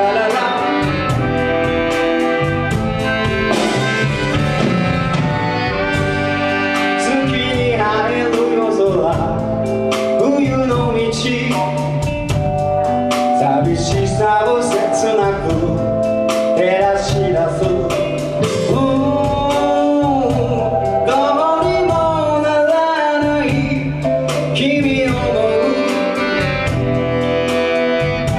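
Live band performing a song with a singer, drums keeping a steady beat under the voice.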